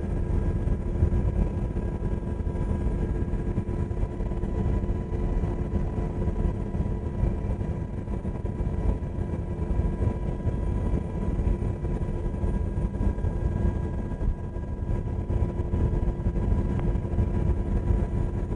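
UH-60 Black Hawk helicopter in flight, heard from on board: a steady drone of engines and rotors with a constant whine held under it.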